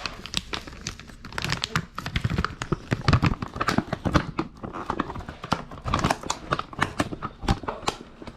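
Plastic packaging crinkling and rustling as it is handled, in dense irregular crackles and taps.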